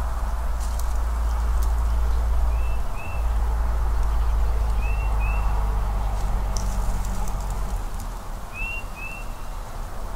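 A small bird repeating a short, high two-note call every two to three seconds, over a steady low rumble and hiss of outdoor background noise, with a few faint clicks.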